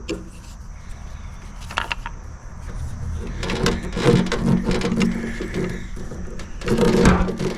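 Hand-work noises as a fuel line is worked off a motorcycle gas tank: scattered clicks and knocks, growing busier from about halfway through.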